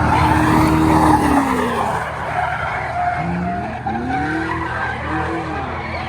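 Cars racing hard on a track, their engine notes rising and falling as they accelerate and ease off, with tyres skidding.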